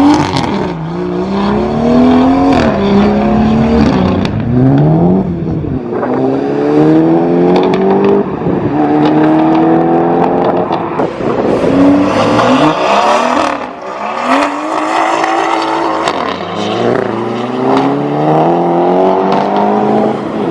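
A car engine pulling hard through the gears, its note climbing for two or three seconds and dropping at each upshift, over and over. The exhaust is straight-piped.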